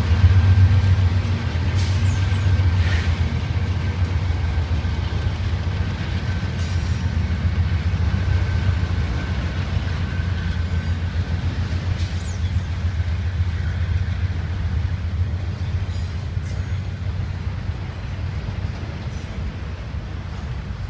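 Norfolk Southern freight train passing, led by diesel locomotives: a steady low engine rumble with a faint high whine, slowly fading as the locomotives pull away and the autorack cars roll by, with a few scattered clicks.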